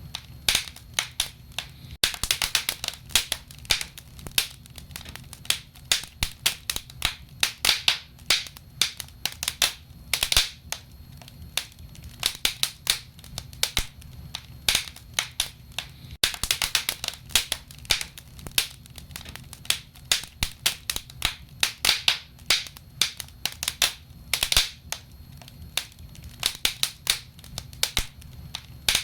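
Wood fire in a fireplace crackling, with many irregular sharp pops and snaps, several a second, over a steady low rumble.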